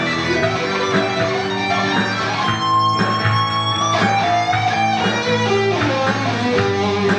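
Rock band playing an instrumental passage led by electric guitar. About two and a half seconds in, one long held note slowly bends upward over the band.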